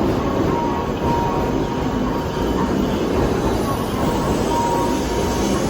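Train running on rails: a steady rumble of wheels and carriage, with a faint thin tone that comes and goes.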